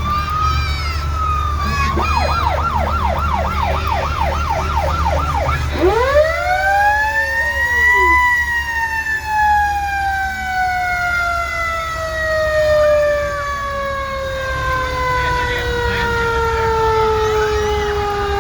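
Fire engine siren sounding: a wail that rises and falls, then a fast up-and-down yelp of about three cycles a second, then a rise about eight seconds in and a long slow wind-down, over the steady rumble of the truck's engine.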